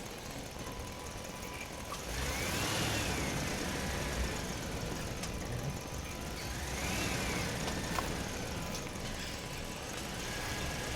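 Electric motors of a Huina radio-controlled toy excavator whining as it works, the pitch rising and falling twice, about two seconds in and again about seven seconds in.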